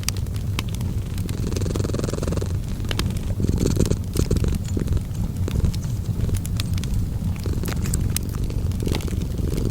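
A cat purring steadily in a low, pulsing rumble, with a wood fire crackling over it in scattered sharp pops and snaps.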